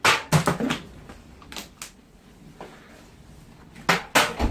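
A string of sharp knocks and clatters: a quick cluster at the start, two more about a second and a half in, and another cluster near the end with a heavier low thump.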